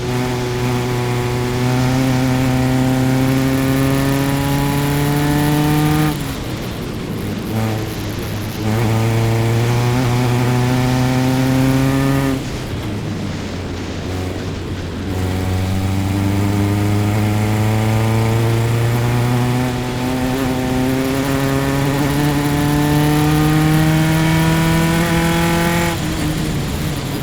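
Single-seater race car engine at racing speed, heard onboard, revving up under full throttle with its pitch climbing steadily. It drops off sharply about 6 and 12 seconds in and again near the end as the driver lifts for corners, and a short step down in pitch about 20 seconds in marks an upshift.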